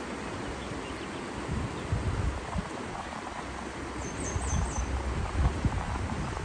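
Outdoor nature ambience: a steady rush of moving water with irregular gusts of wind buffeting the microphone. About four seconds in, a bird gives a short high call of three or four quick notes.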